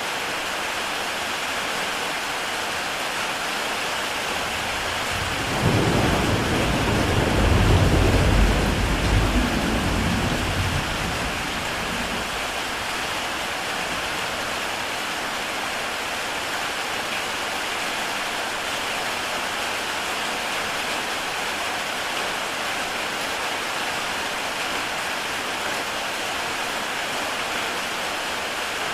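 Heavy rain falling steadily on a tile roof, with a roll of thunder that rumbles in about six seconds in, is loudest around eight seconds and dies away by about eleven.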